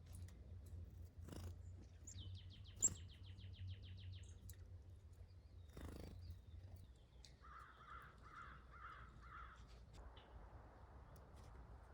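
Faint wild birdsong: a quick high trill of rapidly repeated notes about two seconds in, then a run of five harsh calls about half a second apart. A single sharp click just before three seconds is the loudest sound.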